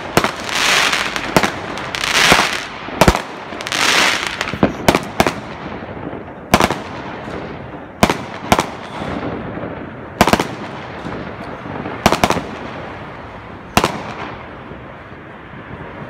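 Aerial fireworks bursting overhead: about a dozen sharp bangs at irregular intervals, with longer hissing swells between the bangs in the first four seconds. The bangs thin out to one every second or two in the second half.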